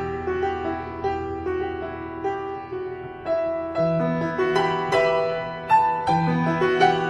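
Background piano music: a melody with chords, notes struck every fraction of a second.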